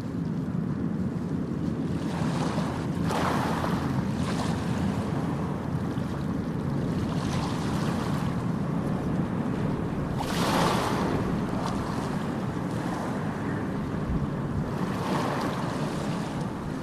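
Ocean surf: a steady low rumble of waves, with the hiss of a breaking wave swelling up three times, the strongest about ten seconds in.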